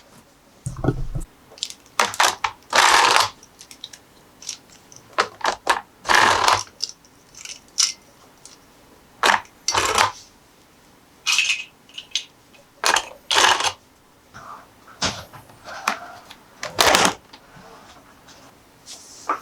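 Toys and their packaging being handled: irregular sharp clicks and clatters of small hard toy parts, with short rustles of packaging every few seconds.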